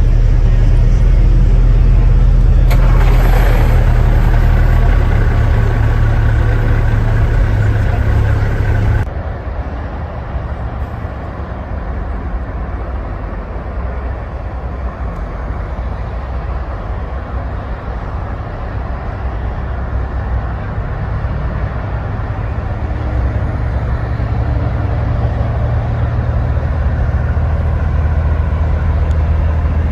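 Heavy truck engines running, a deep steady drone, with an abrupt cut to a quieter engine sound about nine seconds in.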